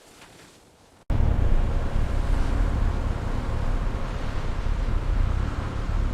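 Faint wind noise, then about a second in a sudden cut to a loud, steady low rumble.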